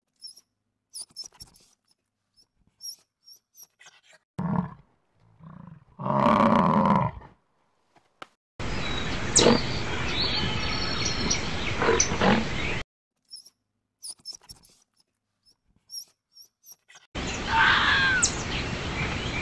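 A string of short wild animal calls with gaps between them. The loudest is a roar-like call about six to seven seconds in. Later there are stretches of outdoor background noise with brief calls in them.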